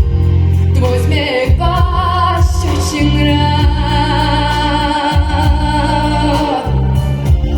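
Female solo voice singing a song over a backing track with steady bass notes, holding a long wavering note in the middle.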